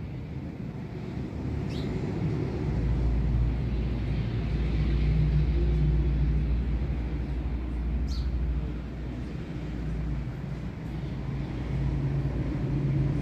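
Truck engine running with a low rumble that grows louder about two seconds in, eases off around the ninth second and swells again near the end. Two short high chirps cut across it.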